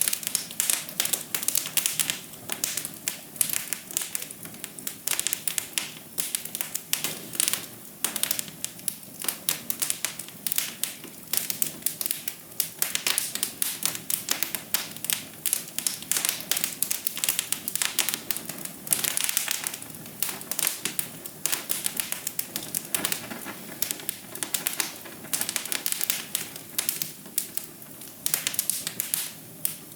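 Wood fire crackling in a fireplace: a dense, irregular run of sharp pops and snaps, several a second, over a soft steady rush of flame.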